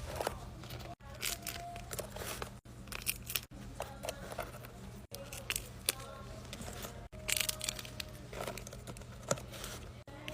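Paper and tape being handled in short bursts of crinkling and tearing, over a steady low hum, broken by several brief drop-outs.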